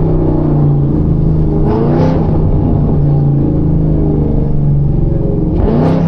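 Chevrolet Camaro ZL1's supercharged V8 running steadily while the car is under way. There are brief swells in pitch about two seconds in and again near the end.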